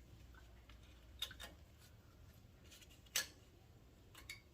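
Light metallic clicks of brake caliper slide clips being pressed into a caliper bracket, with the sharpest click about three seconds in.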